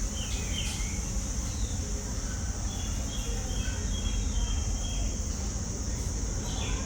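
Scattered short bird calls, a few brief notes about half a second in, a run of short notes around the middle and another call near the end, over a steady high insect drone and a constant low rumble.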